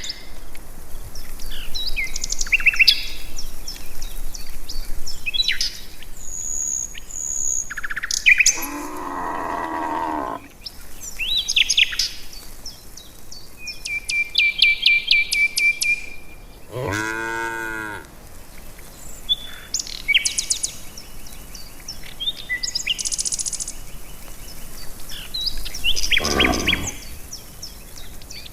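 Village cattle mooing: three long moos, about nine, seventeen and twenty-six seconds in, the middle one rising and falling in pitch. Many birds chirp and whistle throughout.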